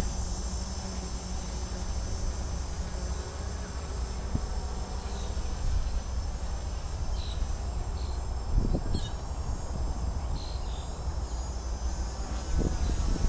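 DJI F450 quadcopter's four brushless motors and 10-inch propellers buzzing steadily in flight, with wind rumbling across the microphone and gusting harder about two thirds of the way in and near the end.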